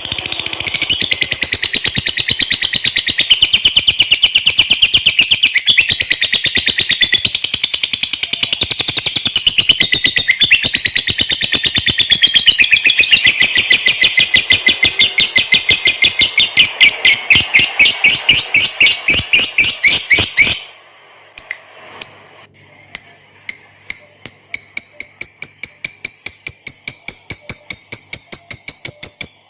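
Lovebird giving a long 'ngekek' chatter: a rapid, unbroken string of shrill notes. About two-thirds of the way through it stops briefly, then starts again with spaced notes that speed up into another long run.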